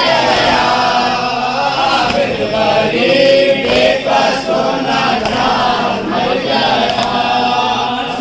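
A group of mourners chanting a noha, a Shia lament, together in a long-drawn, wailing melody.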